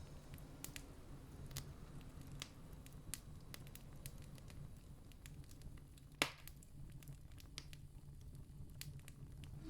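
Campfire crackling faintly, with scattered sharp pops and one louder pop about six seconds in, over a steady low rumble.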